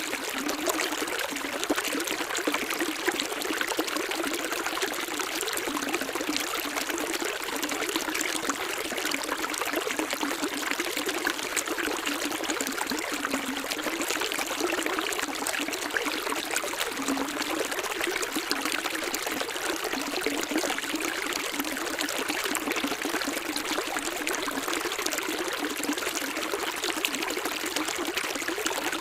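Running water: a small stream trickling and splashing steadily, with no let-up.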